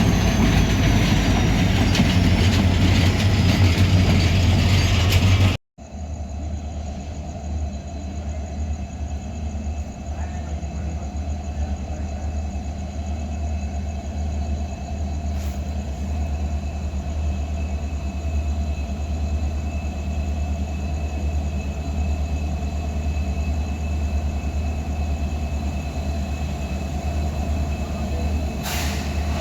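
Diesel-hauled train on the move: a loud rolling rumble with high-pitched wheel squeal, cut off abruptly about five and a half seconds in. It is followed by a steadier, quieter low drone with a few thin, steady whines.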